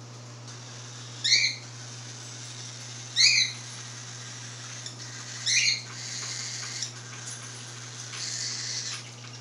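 Five-week-old albino cockatiel chick giving its begging call to be fed: three short, shrill calls that rise in pitch, about two seconds apart, over a steady low hum.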